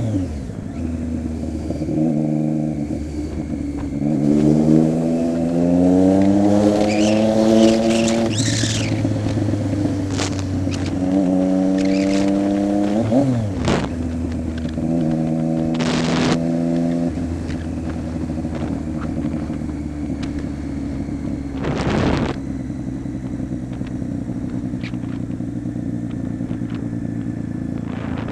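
Triumph Street Triple 675's inline three-cylinder engine idling through a Coffman exhaust with the baffle removed, revved up three times and settling back to idle. Two sharp cracks are heard among the revs.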